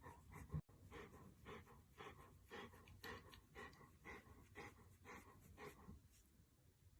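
A dog panting faintly in an even rhythm of about two breaths a second, stopping about six seconds in.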